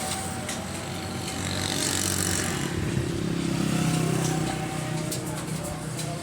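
A motor vehicle engine running. It grows louder for about three seconds in the middle, then eases off.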